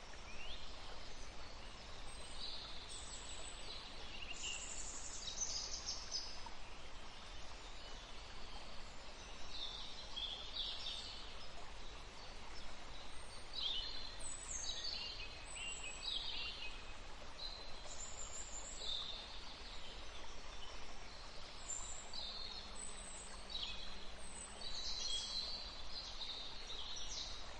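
Forest ambience: scattered birdsong of short high chirps and trills over a steady background hiss.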